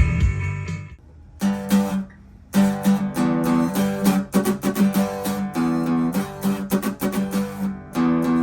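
Guitar strummed in repeated chords, starting about a second and a half in after other music cuts off, with a short break about two seconds in.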